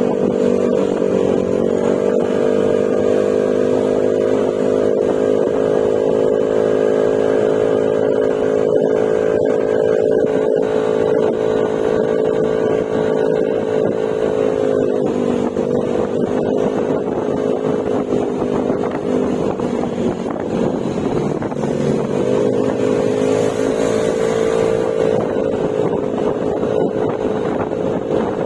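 Yamaha Mio Gravis scooter's single-cylinder engine running through an Akrapovic exhaust with silencer, holding a steady cruising drone. The pitch dips briefly as the throttle eases about halfway through and again a few seconds later, then climbs back. Wind rushes over the microphone near the end.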